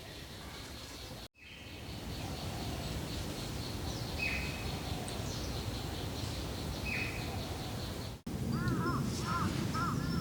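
Forest ambience: a steady outdoor hiss with a faint high ticking and two short bird chirps. The sound cuts out for an instant twice. After the second cut, a bird starts calling in quick repeated harsh notes near the end.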